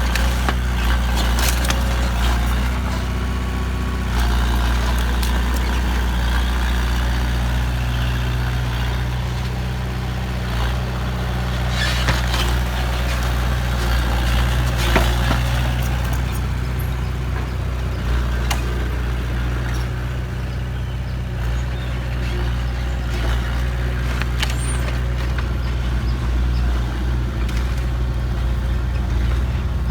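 Heavy diesel truck engine running steadily at low revs, with a few short hissing clatters about 12, 15 and 18 seconds in.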